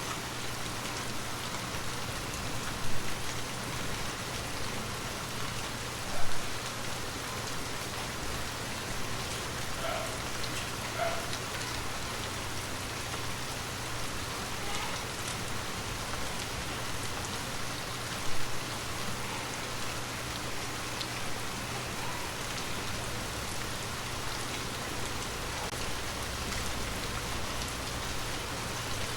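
Gentle rain falling steadily, an even hiss with individual drops heard through it, and three short louder knocks standing out about three, six and eighteen seconds in.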